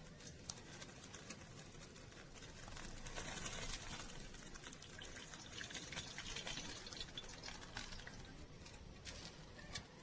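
Liquid running for several seconds, swelling about three seconds in and then fading, with faint scattered clicks.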